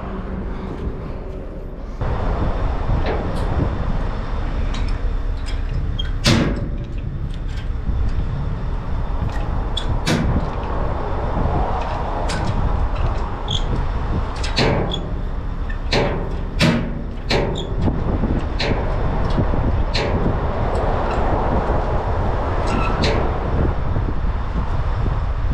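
Scania truck's V8 running steadily, with scattered sharp knocks and clatters over it.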